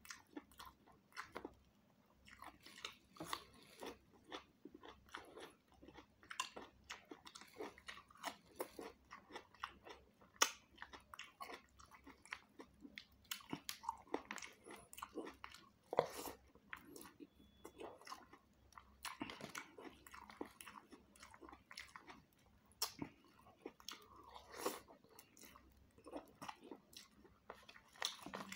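Close-up chewing with irregular crunches and wet mouth clicks: a man eating rice and beef curry with raw cucumber, carrot and red onion.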